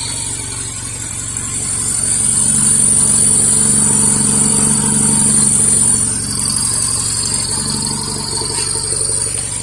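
Honda Z360's small two-cylinder EA engine running, its note growing louder for a few seconds about two seconds in and settling back after about six seconds, with a steady high whine over it.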